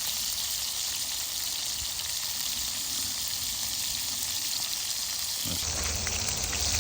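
Chicken frying in a pan, a steady sizzle. A low rumble joins in near the end.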